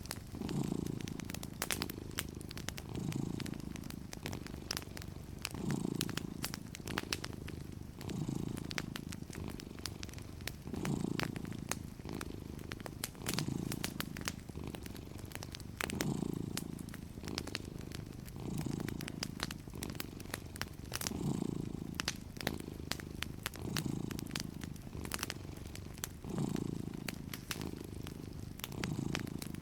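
A cat purring steadily, the purr swelling with each breath about every two and a half seconds, over a fireplace crackling with irregular sharp pops.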